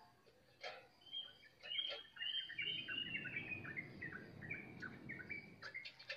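A small bird singing a rapid run of short, falling chirps, with a few light clicks in the first two seconds.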